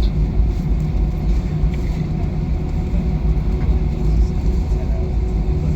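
Airliner cabin noise heard from inside the cabin after landing: a steady low rumble from the engines and air systems, with a faint steady hum.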